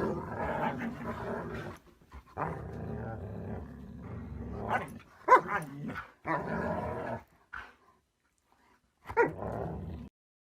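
A Siberian husky growling and grumbling in several long bouts. It breaks into sharper yelping calls about five seconds in and again near the end, then cuts off.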